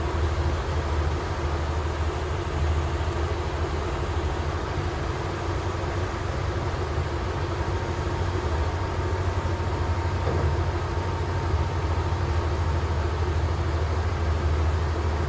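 Passenger train running along the line: a steady, even rumble of wheels on rails, with a faint thin high tone appearing partway through.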